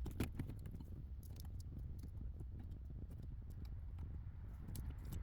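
Faint, scattered small clicks and rustles of hands handling wires and parts under a car dashboard, over a low steady hum.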